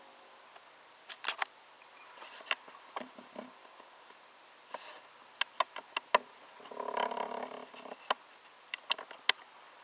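Handling noise around a 1:18 scale diecast model car: scattered small clicks and taps, several in quick succession around five to six seconds in, with a brief rubbing sound about seven seconds in.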